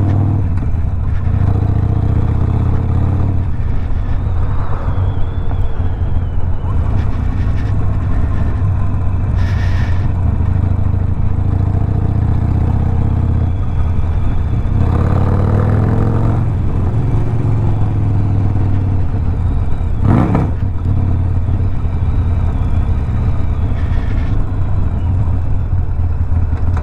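Harley-Davidson Sportster Iron 1200's V-twin engine, stage-one tuned with a Two Brothers 2-into-1 exhaust, running steadily while being ridden. The revs climb briefly about midway.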